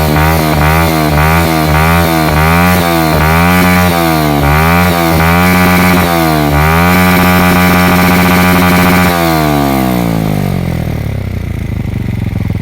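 Yamaha motorcycle engine revved through its exhaust: quick throttle blips at first, then longer revs, held high for about two seconds, then dropping back to idle for the last few seconds.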